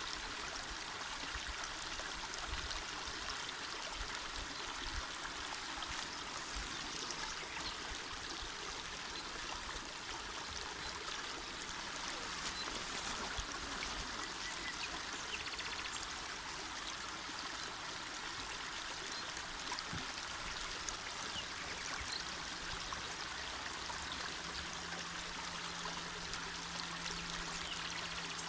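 Small mountain river flowing: a steady, even rush and babble of water.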